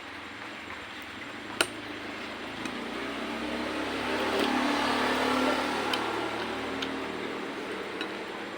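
A motor vehicle passing: its noise swells to a peak about five seconds in, then fades. A single sharp clink comes about one and a half seconds in.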